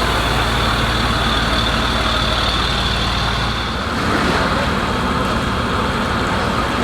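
A large engine running steadily, a low hum under dense mechanical noise; the deepest part of the hum drops away about four seconds in.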